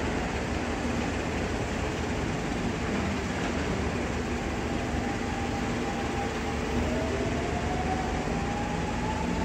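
Seibu Railway electric commuter train pulling away from the platform: a steady low rumble of the running train, with a traction-motor whine that climbs slowly in pitch from about halfway through as the train picks up speed.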